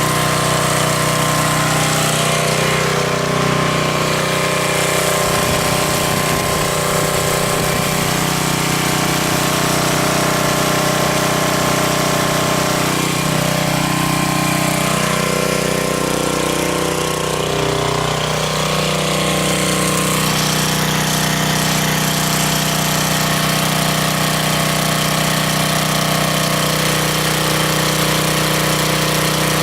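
Coleman Powermate 5,000-watt portable generator engine running steadily at its fixed 3,600 rpm, with no automatic idle-down, shortly after a choked cold start.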